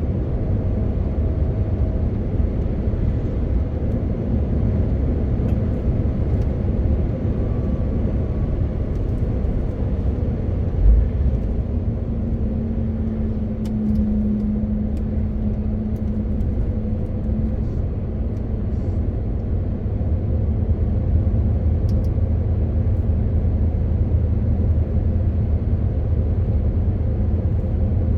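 MAN TGX 18.520 truck driving, its 12.4-litre inline-six diesel giving a steady low drone with road noise. A short low thump comes about eleven seconds in, and a steady hum rises over the drone for a few seconds in the middle.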